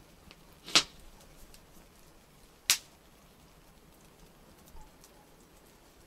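Campfire wood popping: two sharp cracks about two seconds apart, with a few faint ticks between.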